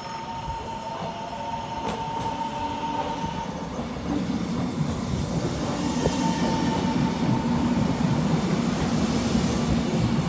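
Taiwan Railways train on the tracks, growing louder from about four seconds in as it comes closer, with wheel rumble and clatter over the rails and a steady high whine throughout.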